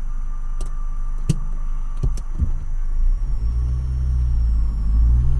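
Car engine running with a few sharp clicks in the first half, then the engine note rises and strengthens about three seconds in as the car pulls away.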